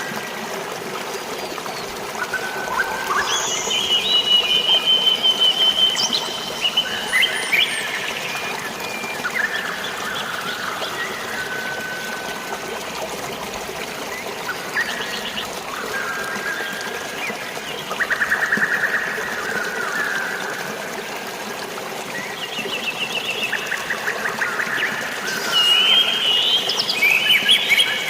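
Running water trickling and splashing steadily, with many birds chirping and trilling over it in short repeated phrases.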